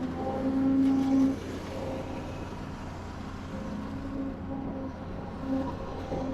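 Heavy construction machinery running: a diesel engine hum with a pitched tone that swells and fades several times, loudest in the first second or so.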